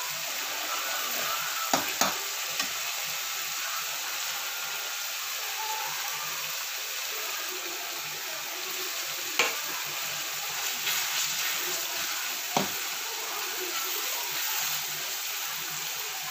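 Onion-tomato masala sizzling steadily in hot ghee in a non-stick pan as grated fresh turmeric is added and stirred in with a metal spatula. A few sharp knocks of utensils against the pan, near the start and around the middle.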